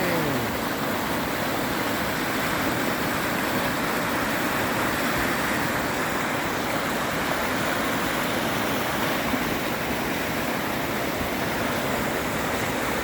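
Steady rushing of a creek running high in flood.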